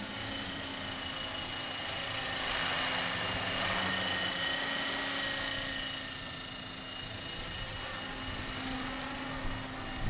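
Radio-controlled model helicopter in flight: a steady high motor whine over rotor hiss, growing louder about two seconds in and easing off again after about six seconds.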